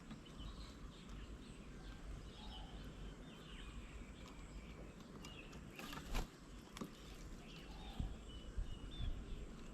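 Small birds chirping and calling in short, scattered high notes over a low background rumble, with one sharp knock about six seconds in.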